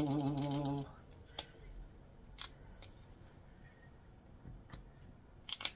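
A drawn-out vocal sound for under a second, then a handful of faint, sharp clicks and taps, about five, from handling acrylic paint pens and paper.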